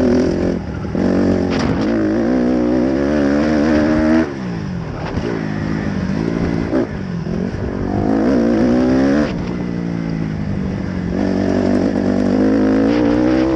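Dirt bike engine revving up three times, each climb in pitch ending in a sharp drop, about four and nine seconds in.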